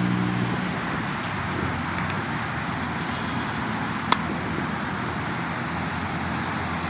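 Steady road traffic noise from passing cars, with a low engine hum that stops in the first half second and a single sharp click about four seconds in.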